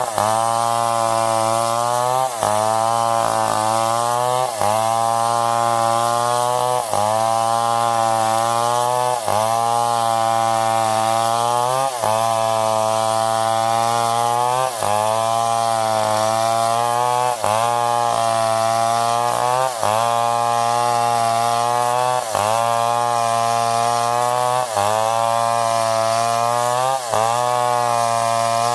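Stihl 070 two-stroke chainsaw running near full throttle while cutting wood, steady and loud. Its pitch dips briefly and recovers about every two and a half seconds.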